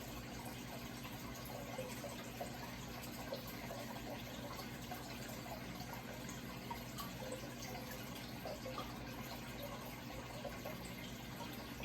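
Running water trickling and splashing steadily, with a low steady hum underneath.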